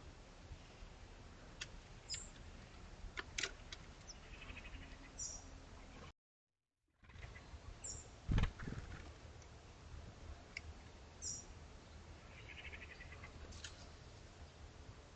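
Small garden birds giving short, high chirps every few seconds over a low, steady background rumble. The sound drops out completely for under a second about six seconds in, and there is a dull thump a little after eight seconds.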